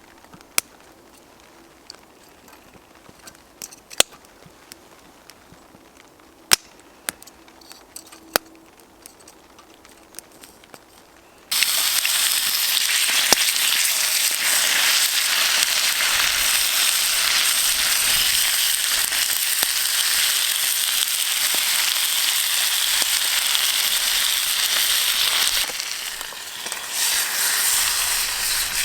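A campfire crackling with scattered sharp pops. About eleven seconds in, this gives way abruptly to bacon sizzling loudly and steadily in a pan.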